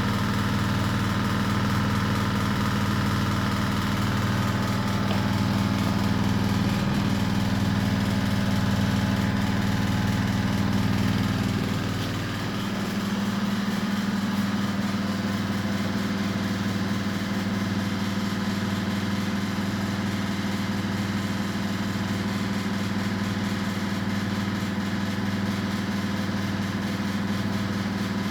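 Washing machine running, a steady motor hum with a deep rumble beneath it. About twelve seconds in the hum shifts slightly in pitch and the deepest rumble drops away.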